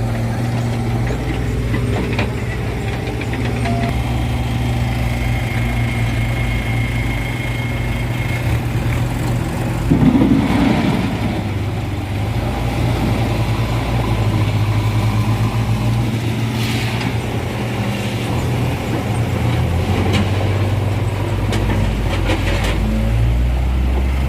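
Heavy diesel engines of a JCB backhoe loader and a tractor running steadily. There is a brief louder burst of noise about ten seconds in, and the engine note shifts about sixteen seconds in.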